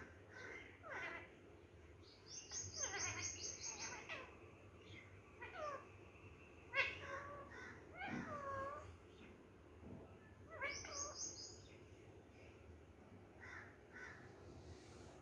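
Pet parrot calling: a string of short calls that bend up and down in pitch, with two quick, high, rapid trills, one about two and a half seconds in and one near eleven seconds.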